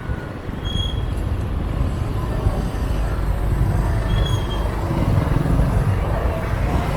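Saigon street traffic heard from a moving motorbike: a steady low rumble of engines, tyres and wind, with other motorbikes and cars passing. Two short high beeps sound, about a second in and again about four seconds in.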